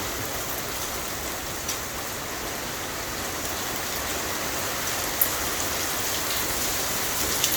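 Heavy thunderstorm rain pouring down steadily, with a few sharp taps of drops or stones striking a hard surface, the loudest about five seconds in.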